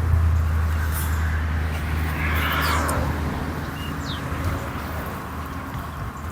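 Low, steady engine hum that fades out about four seconds in, with a few short high chirps.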